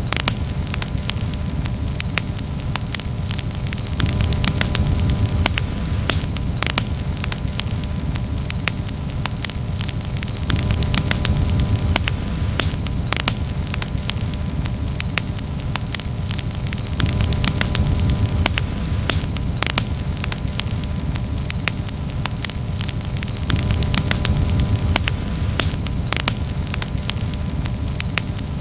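Wood campfire crackling steadily, with many irregular sharp pops and snaps over a low, steady rumble of burning.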